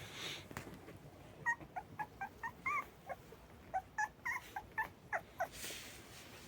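Unweaned mixed-breed puppies (Azov wolfhound crossed with beagle) whimpering: a run of about a dozen short, high squeaks over some four seconds, some bending up and down in pitch.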